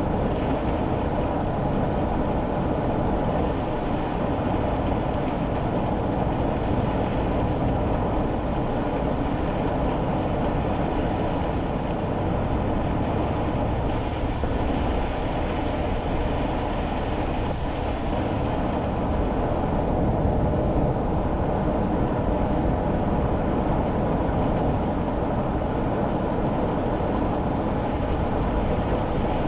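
Steady road and engine noise heard from inside a kei car's cabin while driving on wet roads, an even low rumble with tyre hiss that keeps a constant level.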